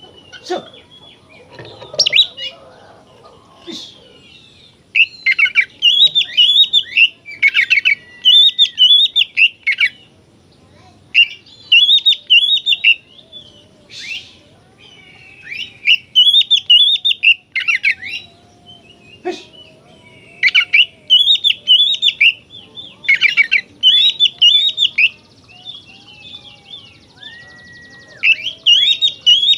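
Oriental magpie-robin (kacer) singing in its full, fast song: repeated bursts of quick, high, chattering and warbling notes, each about a second long and a second or two apart. The bursts begin about five seconds in, after a few softer scattered notes.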